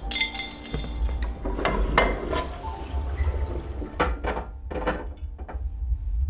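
Metallic clinking and clattering: a ringing clang right at the start, then a scatter of sharp knocks and clinks, over a steady low hum.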